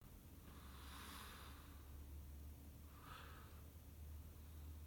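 Near silence: a faint steady low hum with two soft breaths, a longer one about half a second in and a short one around three seconds.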